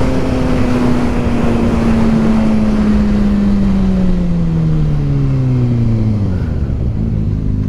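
Kawasaki ZX6R 636 inline-four engine under way, its revs falling steadily over about six seconds as the bike slows, then holding steady near the end. Wind rushes over the microphone throughout.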